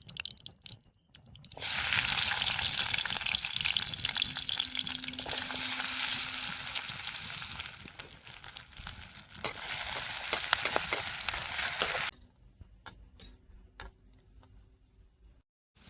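Potatoes frying in hot oil in a pan, a loud sizzle that starts suddenly about a second and a half in, dips briefly twice, and stops about twelve seconds in.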